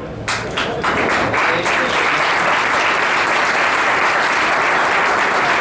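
A group of people applauding: a few separate claps at first, swelling within about a second into steady applause.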